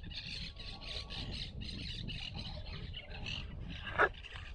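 Birds squawking in a fast, steady run of harsh calls, over a low wind rumble. One short, sharp, loud sound comes about four seconds in.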